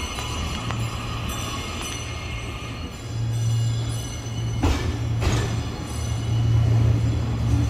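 E001 Train Suite Shiki-shima rolling slowly out of the station: a steady low hum, with two sharp clunks about five seconds in as the cars pass.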